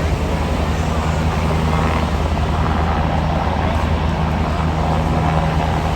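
Aircraft engine drone, a steady low hum over a wash of noise.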